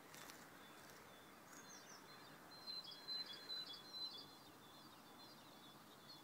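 Faint songbird chirping: quick high chirps and short trills, busiest about halfway through, over quiet outdoor background noise.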